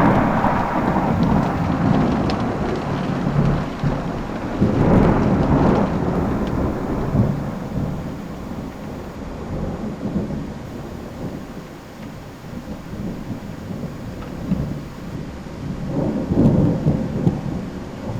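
Thunder in a heavy thunderstorm: a loud rumble begins suddenly at the start and rolls on for several seconds, swells again about five seconds in, and comes back near the end, over the steady hiss of rain.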